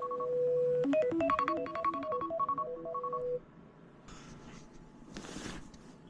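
A short electronic chime melody that repeats about every two seconds, like a phone alarm tone, stops abruptly about three and a half seconds in. Faint rustling follows twice.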